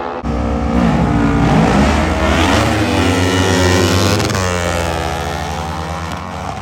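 Racing mini bike engines at full throttle on a drag strip. The sound starts abruptly, its pitch climbs and drops with the gear changes, and it fades away near the end.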